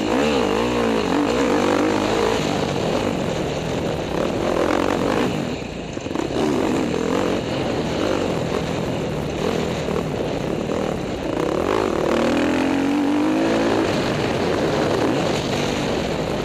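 KTM motocross bike engines revving hard on a track, the pitch climbing and dropping over and over as the throttle opens and shuts, with a short lull about six seconds in.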